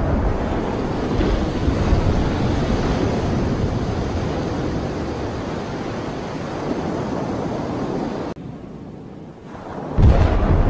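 Underwater explosion beside a ship, heard from its deck: just after the blast, a steady rushing rumble of erupting water with heavy wind noise on the microphone. It drops away briefly, then a second sudden loud burst starts near the end.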